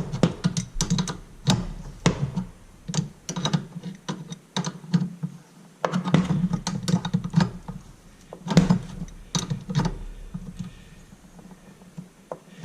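Irregular small clicks and taps of hands working a toilet water supply line and its fittings: unthreading, handling and fitting the connector.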